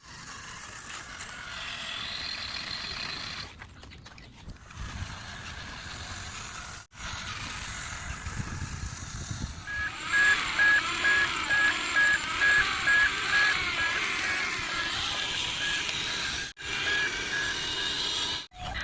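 A steady electronic beep repeating about twice a second starts about ten seconds in, like a truck's reversing alarm, over a bed of other mechanical or musical sound. The sound cuts out abruptly several times.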